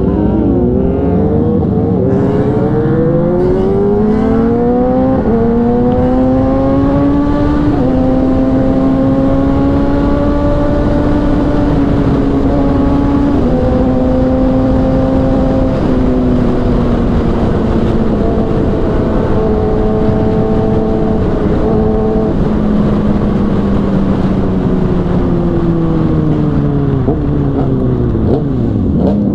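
Kawasaki inline-four superbike engine accelerating hard through several upshifts, each rising pitch broken by a short drop, over the first eight seconds. It then holds high revs at speed and winds slowly down through the last third, with a few quick rises near the end, over a steady wind rush.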